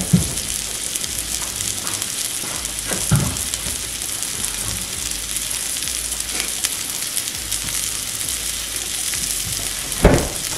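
Sliced smoked sausage and green bell pepper sizzling steadily in a hot cast-iron skillet. A couple of soft knocks come early, and a louder thump comes about ten seconds in.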